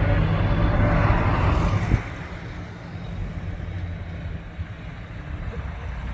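Heavy truck's diesel engine running as it drives past, loud for about the first two seconds, then dropping off suddenly to a quieter steady engine sound.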